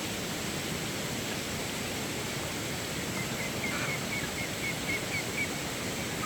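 Steady rushing outdoor noise, with a small bird chirping in a quick series of short notes, about four a second, from about halfway through.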